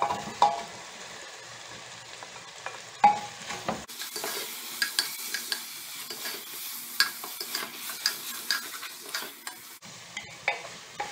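Chicken hearts and onions frying in an open pressure-cooker pot while being stirred with a spoon: sizzling, with spoon clicks and scrapes against the pot. The sizzling gets louder about four seconds in and drops back shortly before the end.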